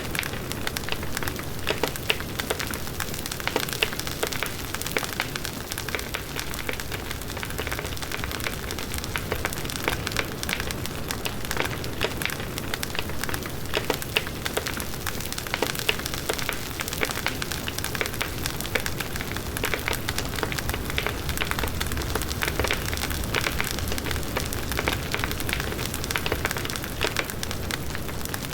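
Large wood bonfire burning, with steady crackling and many sharp pops of burning wood over the rush of the flames.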